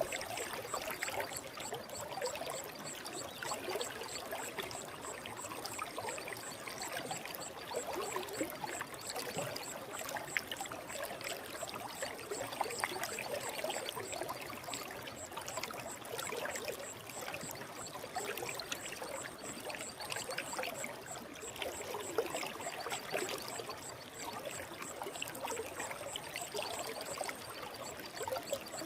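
Forest stream flowing steadily, a continuous babbling rush of water.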